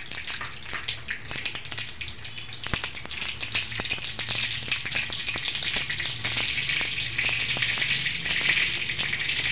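Mustard seeds crackling in hot oil in a kadhai for a tempering (phodni): a steady sizzle with many sharp pops. The sizzle grows louder about halfway through.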